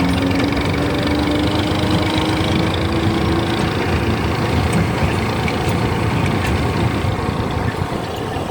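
Tractor engine running steadily, with a tone that slowly rises in pitch over the first few seconds.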